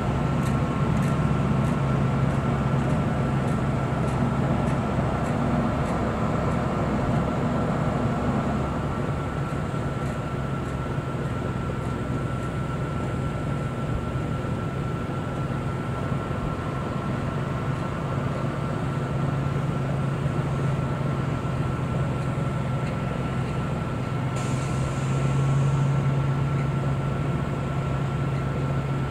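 A large truck's engine runs at low speed while the truck backs up. Its low drone swells and eases, with a thin steady whine running through it and faint ticking about twice a second in the first few seconds.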